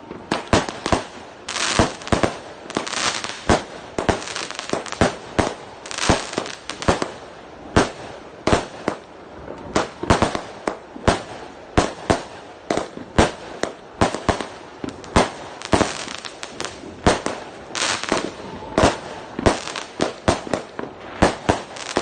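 A consumer firework cake (multi-shot battery) firing a long run of sharp bangs, about two or three a second, with crackling between the reports.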